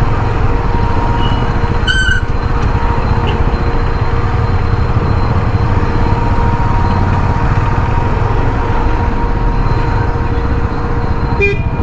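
Busy road traffic in a city jam: a steady rumble of vehicle engines, with two short horn toots, one about two seconds in and one near the end.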